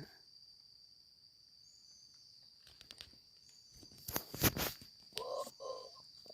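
A steady high insect drone over a quiet forest, broken about four seconds in by a few loud sharp knocks, then two short cat meows near the end.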